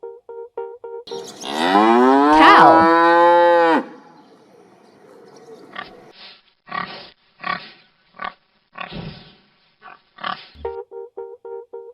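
A cow mooing once: a long, loud moo that rises in pitch and then holds, lasting about two and a half seconds.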